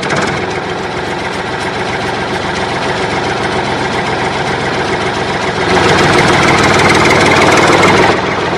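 A motor running steadily with an engine-like rattle, growing louder about six seconds in and easing back near the end.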